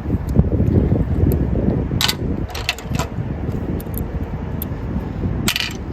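Metal socket and wrench clinking against metal in a car's engine bay: a few sharp clicks about two to three seconds in and another cluster near the end, over a low rumble of handling noise on the microphone.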